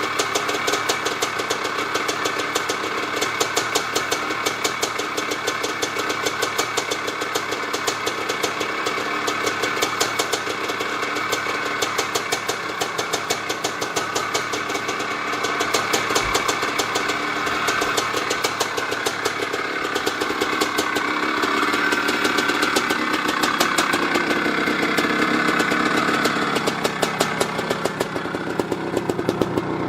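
1985 Maico 500's single-cylinder two-stroke engine running at a fast idle, with an even, rapid train of firing pulses. The engine gets somewhat louder about two-thirds of the way through, then drops back near the end.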